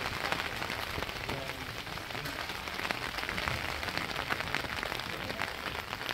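Steady rain falling, with a dense patter of individual drops ticking close by.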